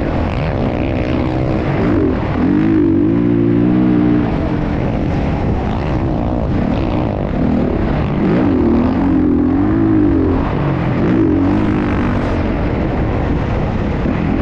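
Motocross bike engine noise, revving up and down with the pitch rising and falling every second or so.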